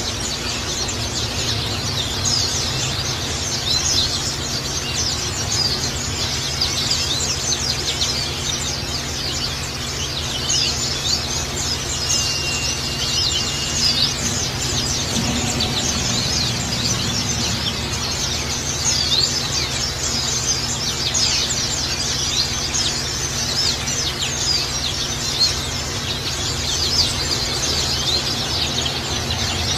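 Many small birds chirping rapidly and without pause, high-pitched, over a steady trickle of gurgling water, with a low steady hum underneath.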